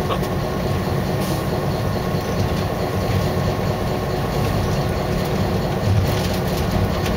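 Diesel locomotive running under way, heard from inside its cab: a steady low engine drone mixed with the rumble of the train rolling on the rails.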